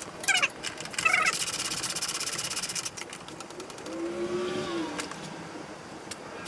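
A tool clicking rapidly and evenly for about two seconds, as bolts are undone to take off a dirt bike's seat. Short high calls come just before it, and a low wavering tone about four seconds in.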